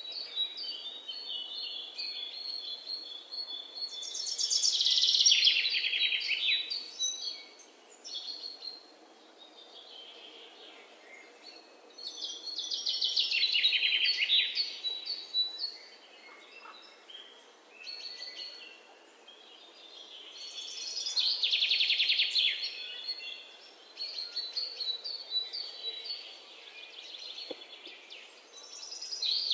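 Birds chirping, with a louder, rapid high trill that swells and fades about every eight seconds.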